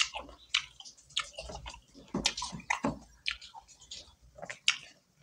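Close-up chewing of a mouthful of fried chicken kebab and rice, eaten with the mouth open: quick, irregular clicks and smacks, a few a second.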